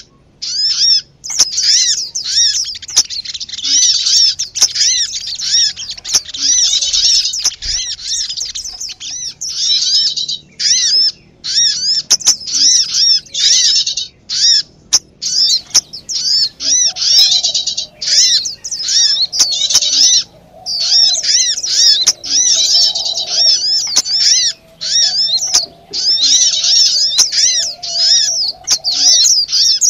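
Bird-lure recording of many small birds chirping in a noisy, agitated chorus: quick arched chirps repeated densely, broken by brief pauses. A lower, softer warbling runs underneath from about halfway.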